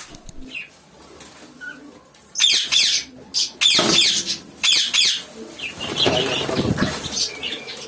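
Caged ornamental birds in an aviary calling: a few faint chirps, then from about two seconds in repeated loud, shrill, raspy screeches in short bursts.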